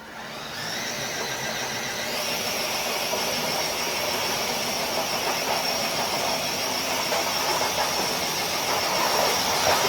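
Electric motor and drivetrain of a Blazer-bodied RC crawler truck whining under load as it drags a weighted sled across concrete, with the scrape of tyres and sled underneath. The whine rises over the first couple of seconds, then holds at a steady high pitch.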